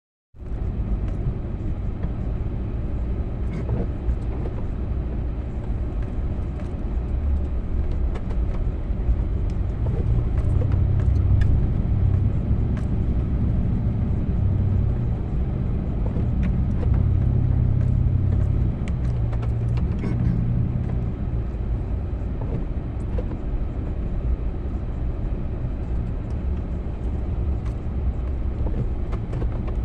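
Engine of a snow-plowing vehicle running steadily with a low rumble, louder for a stretch in the middle.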